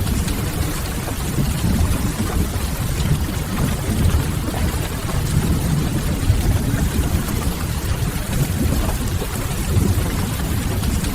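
Steady rain-and-fireplace ambience: constant rain noise over a deep, even low rumble, with no change in level.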